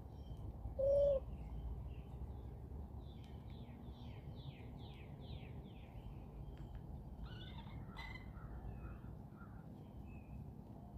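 Outdoor bird sounds: a short, low hooting note about a second in, the loudest sound, then a songbird's rapid trill of descending notes and scattered chirps over a steady low rumble.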